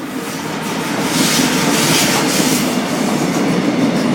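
A train running through the station on Line 1 tracks, its wheels rolling over the rails and getting louder about a second in.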